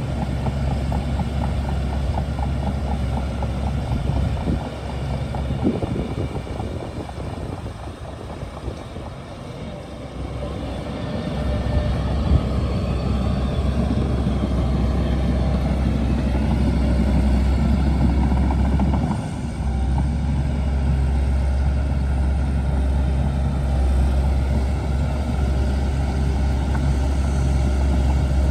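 Shantui DH17C2 bulldozer's diesel engine running with a steady low drone. It drops back and weakens for several seconds about five seconds in, then picks up again strongly around eleven seconds and dips briefly once more later.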